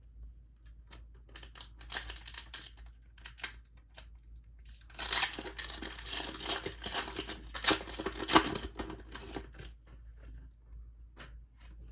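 A crinkly packaging wrapper being torn open and crumpled: scattered crackling, then a denser, louder stretch of tearing and crinkling in the middle, ending in a few separate ticks.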